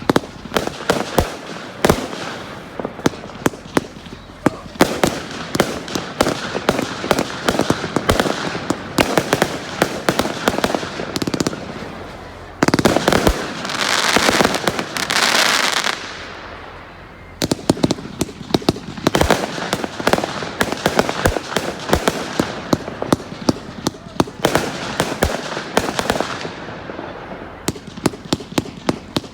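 Firework display: rapid sharp bangs and crackling from bursting shells. About halfway through comes a loud hissing rush lasting a few seconds.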